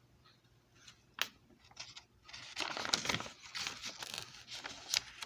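Crinkling and rustling handling noises with a sharp click about a second in; the rustling is loudest in the second half.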